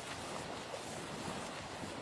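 Wind blowing steadily in a blizzard, an even rushing noise.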